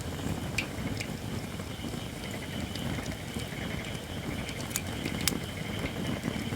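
Campfire of Japanese white oak (shirakashi) firewood burning, with a low steady rumble, a few sharp crackling pops, and a steady thin hiss from wood that is not yet dry enough.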